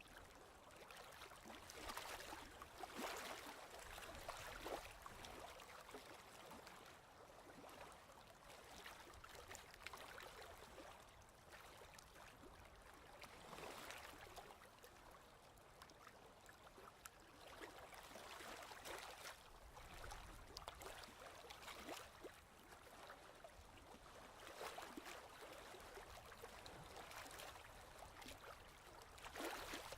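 Faint ocean waves washing in, the hiss swelling and fading every few seconds.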